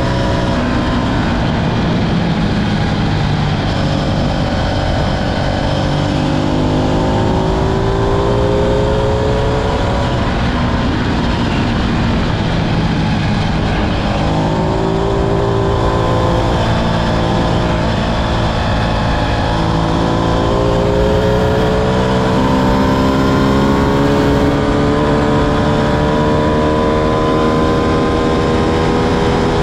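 Ducati Streetfighter V2's 955 cc Superquadro V-twin under way, accelerating with its pitch climbing three times and dropping between the climbs as it shifts up or rolls off, the last climb long and steady near the end.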